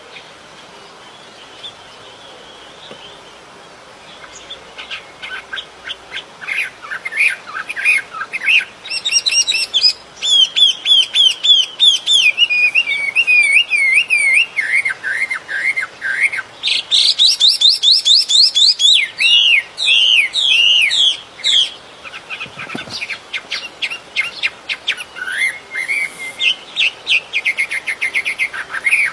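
Songbird singing a varied, fast song of whistled phrases, rapid trills and chirps, broken by short pauses. It is quieter for the first few seconds.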